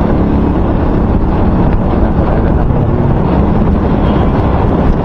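Loud wind noise buffeting a microphone that has been wrapped in electrical tape: a heavy, steady low rumble that the tape has not cured.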